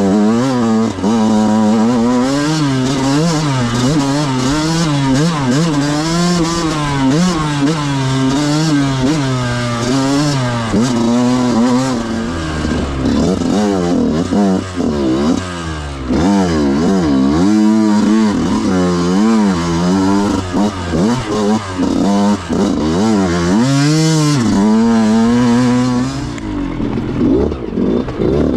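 Yamaha YZ125 two-stroke single-cylinder dirt bike engine being ridden hard, its pitch rising and falling over and over as the throttle is worked; about two seconds before the end it drops to a lower, duller running sound. The rider judges its jetting still a little lean on the bottom end.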